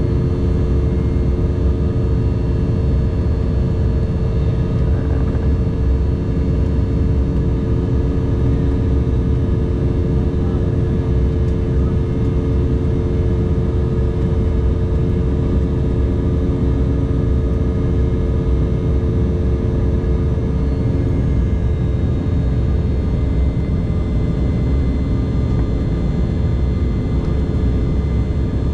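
Cabin noise inside an Embraer 190 jet with its General Electric CF34-10E turbofan engines running: a loud, steady rumble with several steady engine tones over it. The strongest of these tones fade out about twenty seconds in.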